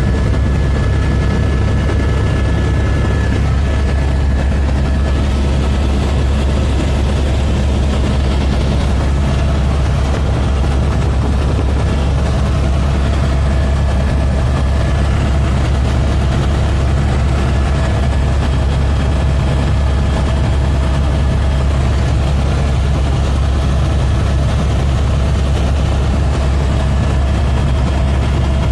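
Helicopter running steadily in flight: a constant deep rotor and engine noise with a few steady higher whines above it.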